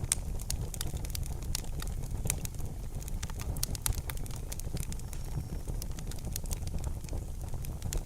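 Wood fire burning in a fireplace, with many irregular sharp crackles and pops over a steady low rumble.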